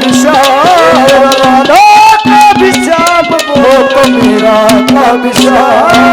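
Haryanvi ragni folk music played instrumentally: an ornamented melody sliding between notes over a steady drone, with a busy hand-drum rhythm.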